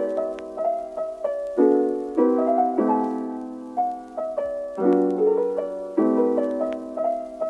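Background piano music: gentle struck chords and melody notes that ring and fade, with a new chord about every second.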